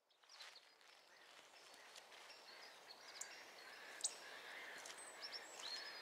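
Faint outdoor ambience fading in, with small birds giving scattered short, high chirps and thin calls. The sharpest call comes about four seconds in.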